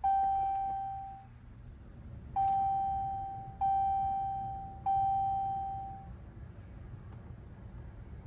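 A Ram pickup's dashboard warning chime dinging four times as the ignition key is switched on: one ding, then three more about a second apart, each ringing out and fading.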